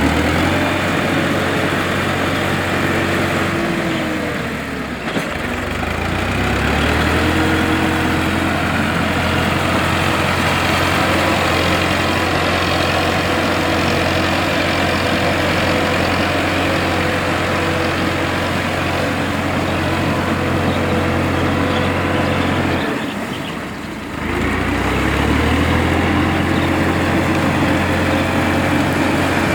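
Kubota farm tractor's diesel engine running steadily while ploughing a paddy field. Its note sags and then picks back up twice, about five seconds in and again about twenty-three seconds in.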